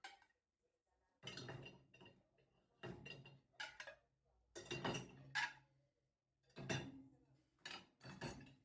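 Dishes and cutlery clattering in about six short bursts, with a faint low hum underneath.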